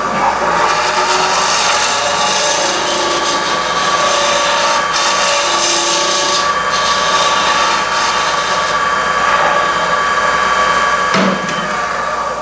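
Turning tool cutting a small wooden blank on a running wood lathe, a steady scraping hiss of wood being shaved round over a faint motor whine. A sharp click comes about eleven seconds in, and the cutting stops at the very end as the blank is judged round.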